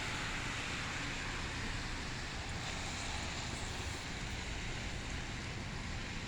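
Steady wind noise in a snowstorm, with a low rumble and an even hiss.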